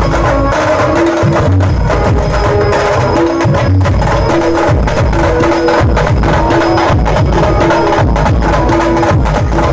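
Loud banjo-band procession music: fast, dense drumming with a short melodic phrase repeating about once a second.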